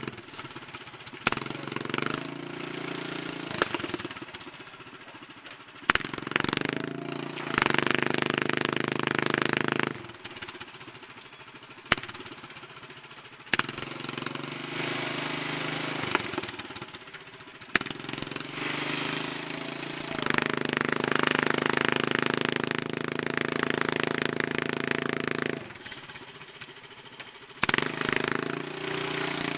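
Predator mini truck's small gas engine running with a rough, rapid putter, twice revving up and staying loud for a few seconds as it strains to pull a dead tree, then dropping back to a lower idle. A few sharp clunks sound between the runs.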